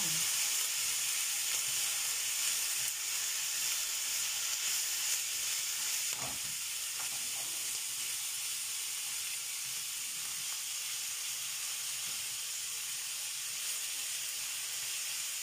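Minced beef and onions sizzling in a frying pan, a steady high hiss, as they are stirred with a silicone spatula. A single soft knock about six seconds in.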